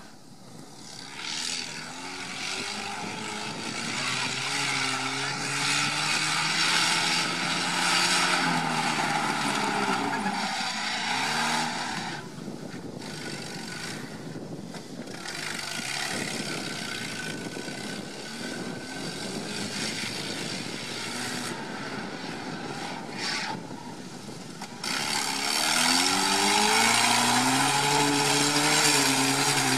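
Off-road 4x4 engine working hard on an off-road course, its revs repeatedly rising and falling as the driver accelerates and lifts off, with hard revving again near the end.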